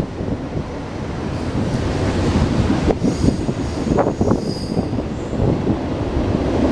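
Railroad train passing close by: a steady rumble of wheels on rail, with scattered clicks, and faint high wheel squeal for a second or two partway through.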